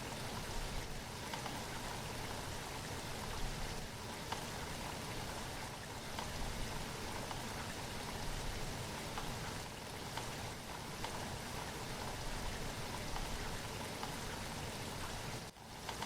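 Steady rain falling, a continuous hiss with many individual drops ticking on a surface. The sound briefly dips about half a second before the end, then resumes.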